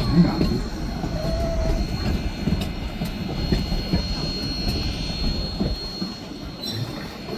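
Narrow-gauge passenger train rolling on the rails, a steady low rumble with a thin, high-pitched wheel squeal that fades out about five seconds in.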